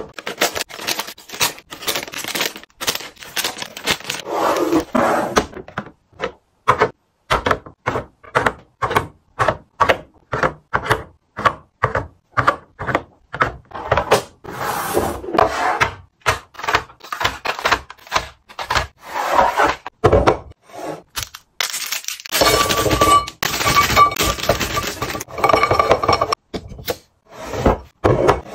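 Items being restocked into a fridge: a quick run of knocks, clicks and glass clinks as bottles, jars and containers are set down and moved around, with a steady ringing tone for a few seconds near the end.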